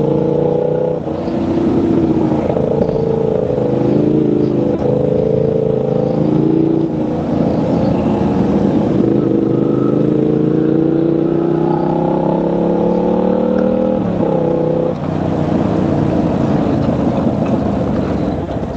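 Motorcycle engine under way, its note climbing through the revs and dropping sharply at gear changes, with a long steady climb in the middle. A constant rush of wind and road noise runs underneath.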